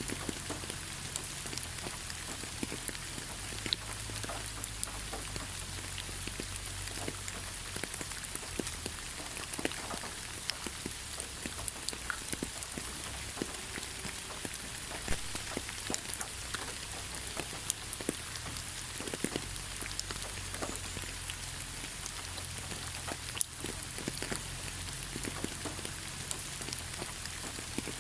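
Steady rain falling in a forest: an even hiss with many individual drops striking close by as sharp clicks, over a low rumble.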